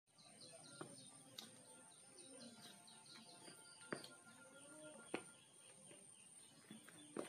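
Faint birds chirping in short repeated calls, with a few soft footsteps of sneakers on a concrete floor.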